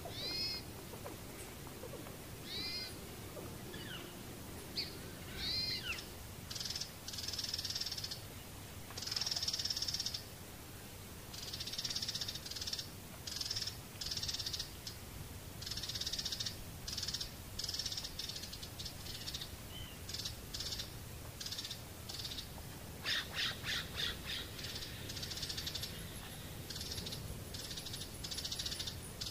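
Birds calling: a few short calls that rise and fall in pitch, then many short, high calls repeated one after another, with a quick run of calls near the end.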